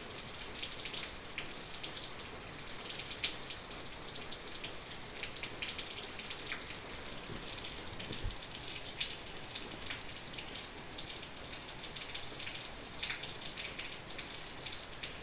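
Bread slices deep-frying in hot oil: a steady sizzle with many small crackling pops.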